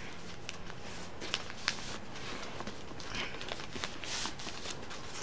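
A sheet of paper rustling and creasing as it is folded into a paper airplane: soft crinkles and a few small ticks over a steady faint hiss.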